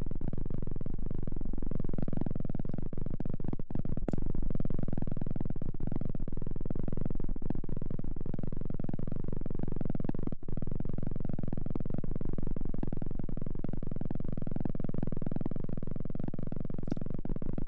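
ASMR trigger sound close to the microphone: a steady, dense low rumble with a fine rapid texture, unbroken apart from two brief dips.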